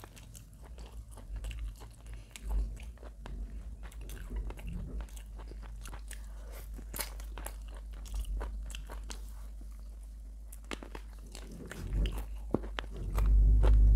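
Close-miked biting and chewing of a crisp roasted chicken leg: crunching with many small wet clicks and crackles. A few low thumps, loudest near the end.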